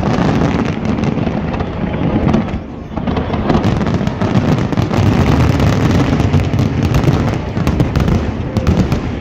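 Large aerial fireworks display: shells bursting in rapid, overlapping succession, a continuous rumble of booms with crackling on top, easing briefly about two and a half seconds in before building again.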